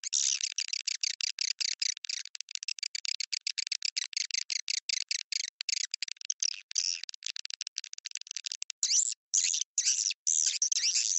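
Swiftlet calling-sound lure track: a dense run of rapid, high twittering chirps of edible-nest swiftlets, several a second, breaking into fewer, longer chirps with short gaps near the end. It is the kind of call played in a swiftlet house to draw the birds in to roost and nest.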